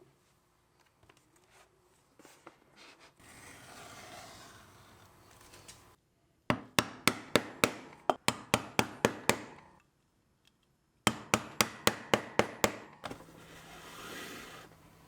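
Leatherworking hammer strikes in two quick runs of about four to five blows a second, the first longer than the second. Stretches of rubbing or scraping on the leather come before and after them.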